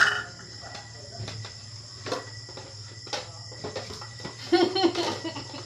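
Dishes clinking now and then as they are washed, over steady cricket chirring. A short voice-like sound comes a little after four and a half seconds in.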